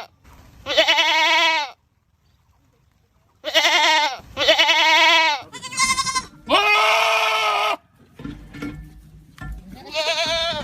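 Goats screaming: a run of about six long, loud, wavering bleats, each up to a second or so, with gaps between them. A quieter, lower stretch of sound comes between the last two calls.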